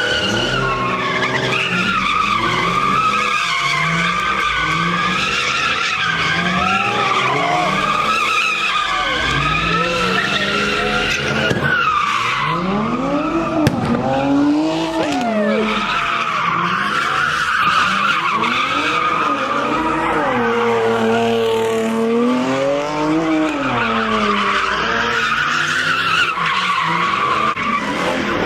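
A car drifting in circles: its tires screech steadily while the engine revs up and down over and over.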